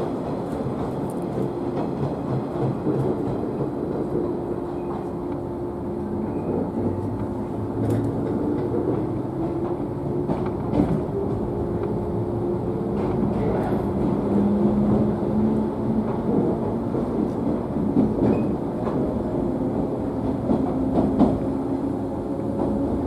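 Ride noise inside a JNR 113 series electric train car: traction motor hum whose tones rise slowly as the train gathers speed after a station stop, with the wheels clicking over rail joints now and then.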